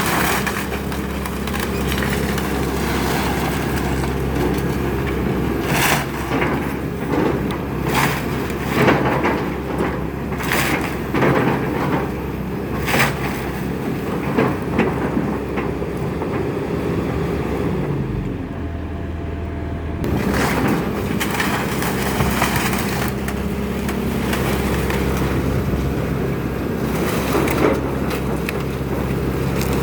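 Excavator engine running steadily while wooden house framing cracks, splinters and crashes in a series of sharp breaks, with a brief lull in the breaking about two-thirds of the way through.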